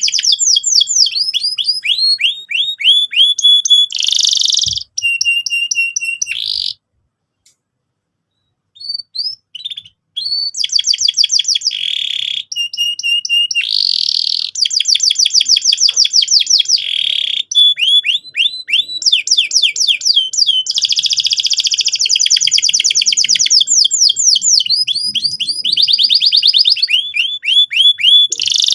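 Domestic canary in full song, delivering long rapid rolling trills of repeated high, downward-sweeping notes, with a pause of a few seconds about a quarter of the way through.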